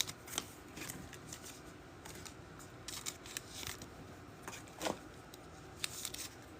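Trading cards being handled: soft rustles of cards sliding against each other, with scattered faint clicks and ticks.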